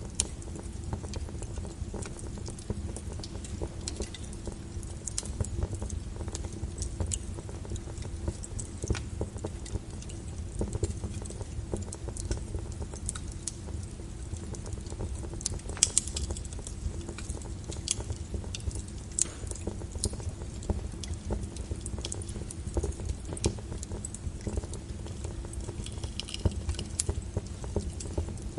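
Log fire burning in a fireplace, crackling with many irregular pops and snaps over a steady low rumble; one sharper snap about halfway through.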